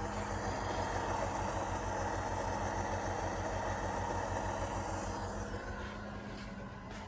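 Sound decoder's recorded GE 7FDL-16 diesel prime mover running at high RPM through the model locomotive's small speaker, a steady rhythmic chugging, easing slightly near the end.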